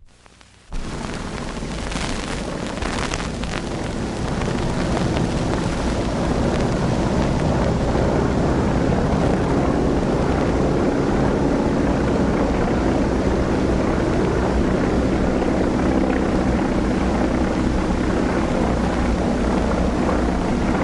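Propeller-driven piston-engine airplanes droning steadily in flight. The drone starts abruptly just under a second in and holds steady, on an old, noisy film soundtrack.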